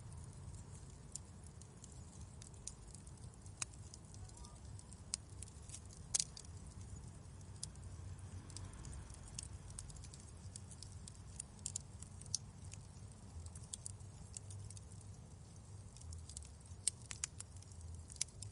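Wood fire crackling in a fireplace: scattered sharp pops and snaps over a low steady rumble, with a louder pop about six seconds in and a cluster of snaps near the end.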